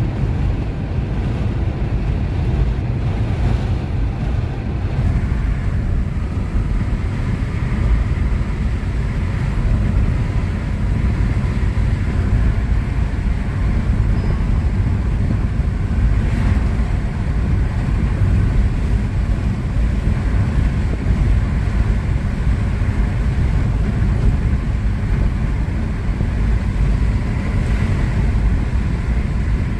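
Cabin noise of a Hyundai Aura sedan at highway speed, around 100 km/h, with the windows down and the AC off. Wind rushes in through the open windows over tyre and road noise, a loud and steady roar with no let-up.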